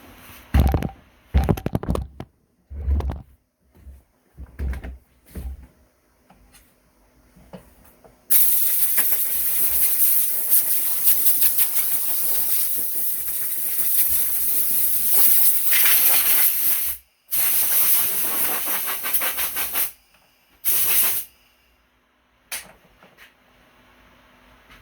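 A few knocks and clicks, then a loud, steady, high hiss lasting about nine seconds. After a brief break it runs again for a few seconds and ends with one last short hiss.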